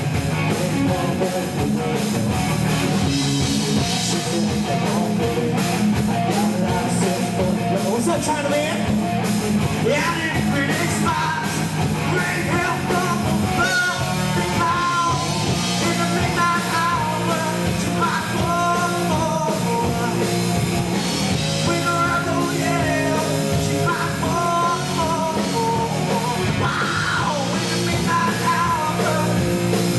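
Live rock band playing a loud, steady song with drums and guitars, heard through a poor-quality concert recording.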